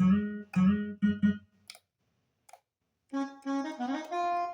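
Roland Juno-Gi synthesizer being played, producing sound again after a no-sound repair: about four short, clipped notes, a pause of a second and a half, then a quick run of notes climbing in pitch.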